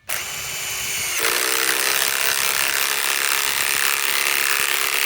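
Ryobi PSBIW25 compact cordless impact wrench running continuously, driving a 5/16 by 3 inch galvanized lag screw into wood. The sound changes about a second in as the impact hammering takes over under load.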